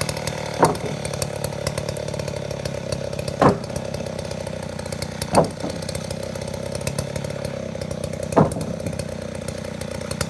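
Chainsaw engine running steadily. Four times, a short, louder sound falls quickly in pitch over it.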